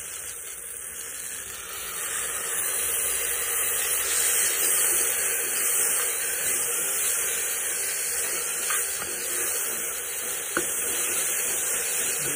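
Ginger-garlic paste sizzling in hot oil and softened onions in a pressure cooker as it is stirred in with a spatula; the sizzle grows louder about two seconds in, with one sharp tap near the end.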